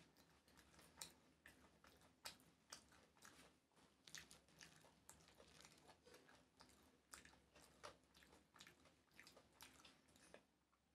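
Faint close-up chewing of a mouthful of rice and curry, with irregular wet mouth clicks several times a second.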